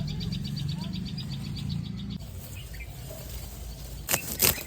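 Garden ambience with a fast run of high, repeated chirps from a small animal that slows and fades out about two seconds in, over a low hum that cuts off at the same moment. Near the end come two sharp knocks close together, the loudest sounds.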